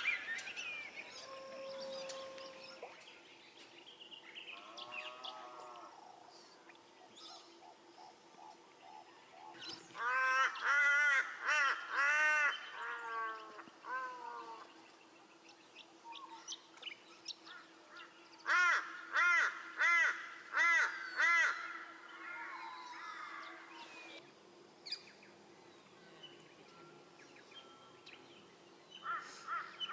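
Birds calling: two bouts of loud calls, each a run of about five evenly spaced notes that rise and fall in pitch, one about ten seconds in and another near two-thirds through, with softer bird chirps in between.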